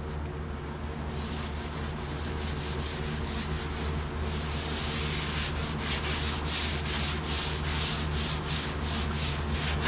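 Sandpaper rubbed by hand over the sheet-metal roof of a cab. The rubbing starts about a second in and settles into quick, even back-and-forth strokes, about three a second, in the second half.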